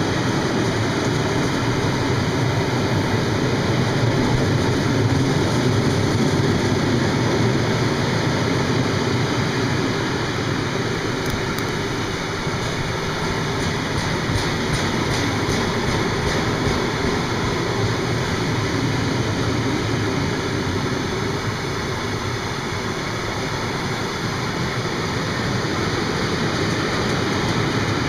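Freight train rolling past: a steady rumble of wagon wheels on the rails, easing slightly in the second half, with a few faint clicks about halfway through.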